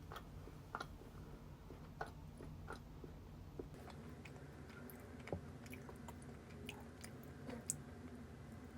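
Faint, close-up chewing of a chocolate cookie, with scattered small crunchy clicks over a low steady hum.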